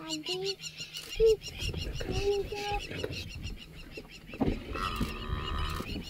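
Large birds giving a few short, honking calls in a scuffle, over a faint steady high chirring in the background.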